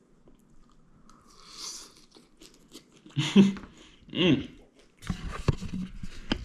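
A person chewing a mouthful of a chicken, rice and vegetable burrito bowl close to the microphone, with wet, crunchy clicks of chewing that grow denser in the second half and two short voiced sounds in the middle.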